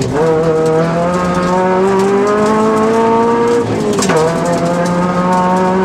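Rally car engine heard from inside the cabin, pulling hard with its pitch climbing steadily. About four seconds in the pitch drops sharply with a short knock, an upshift, and the engine pulls again.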